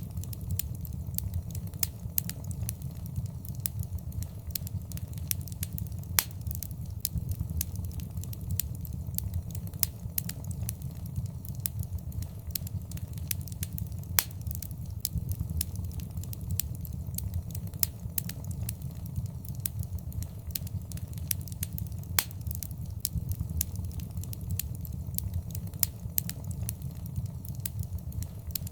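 Wood fire crackling in a fireplace: frequent sharp pops and snaps, several a second, over a steady low rumble of the flames.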